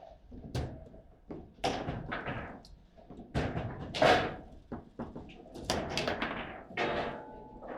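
Table football table in fast play: an irregular run of hard knocks and clacks as the ball is struck by the players on the rods and bangs off the table walls, with one loudest hit about four seconds in.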